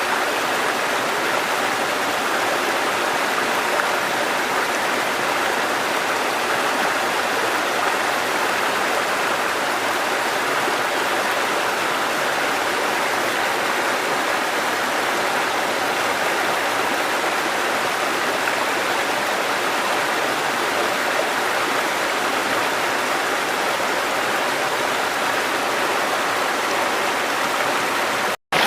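River water flowing, a steady, even rush. It cuts out for a split second near the end.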